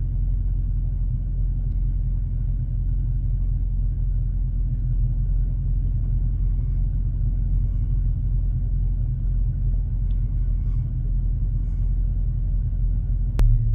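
Steady low rumble of a vehicle running, heard from inside it, with a single sharp click near the end.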